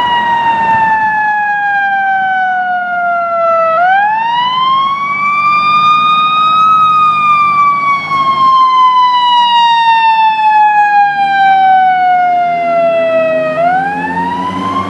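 Fire engine siren wailing: one loud tone that slides slowly down for about four seconds, climbs back up over about three seconds, then falls slowly again for about seven seconds before starting to climb near the end. A lower engine note comes in under it for the last few seconds.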